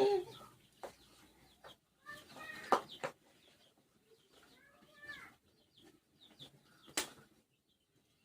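Chickens clucking in short calls a few seconds apart, with a couple of sharp clicks or knocks.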